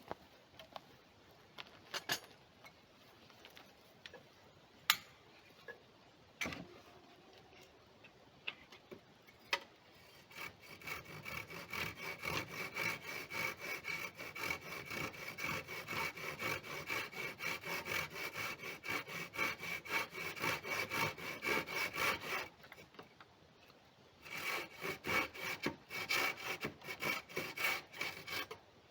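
Hand saw cutting wood in quick, regular back-and-forth strokes, in two spells with a short pause between them, after a few scattered knocks.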